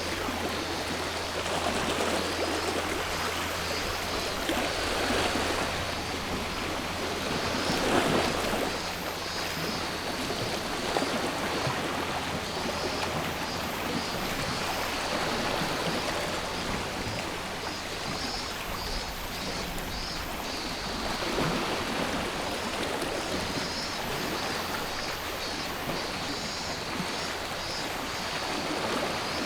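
Sea waves washing in and drawing back, swelling every few seconds, with cicadas buzzing over them in a steady high drone that pulses more strongly in the second half.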